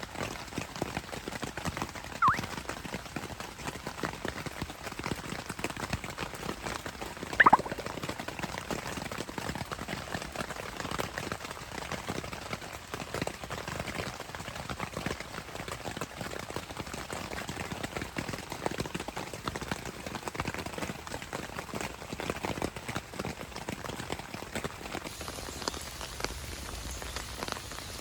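Rain falling in a steady, dense patter. Two short, sharp squeaks cut through it, about two seconds in and again about seven seconds in; the second is the loudest sound.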